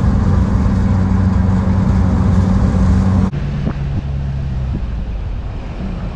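Car cabin noise while driving: steady engine hum and road noise. About three seconds in it drops abruptly to a quieter, lower hum.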